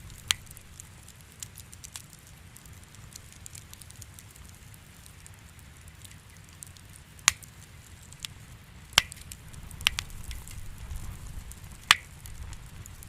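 Wood fire crackling in a fireplace: faint crackle over a low rumble, with about five sharp, loud pops a few seconds apart.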